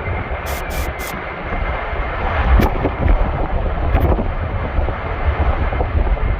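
Severe straight-line wind gusting, a steady rushing roar with heavy wind buffeting on the microphone. A couple of sharp knocks stand out, about two and a half seconds in and again around four seconds.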